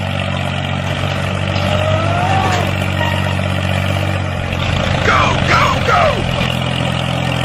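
A motor running steadily with a low, even hum, with a few short rising-and-falling high calls about five to six seconds in.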